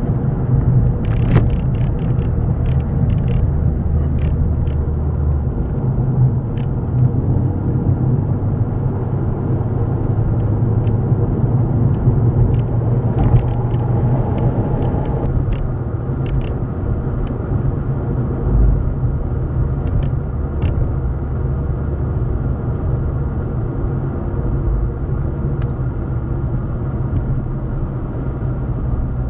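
Steady low rumble of a running motor vehicle, with scattered light clicks.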